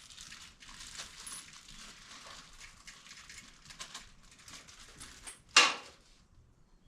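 Small loose metal hardware, nuts and bolts, clinking and rattling as it is handled, with one sharp, louder metallic clank about five and a half seconds in.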